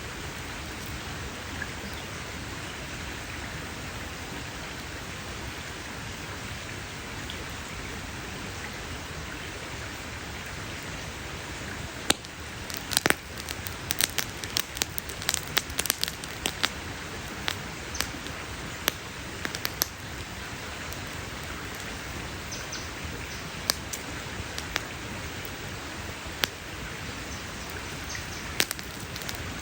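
Campfire wood crackling, with a burst of sharp pops a little before halfway, then scattered pops, over a steady rain-like hiss.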